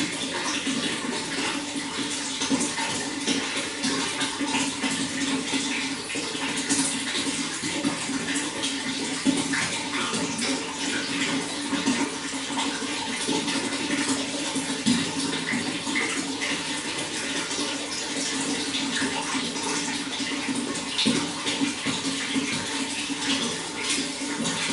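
Running water, a steady splashing and gurgling flow with no break.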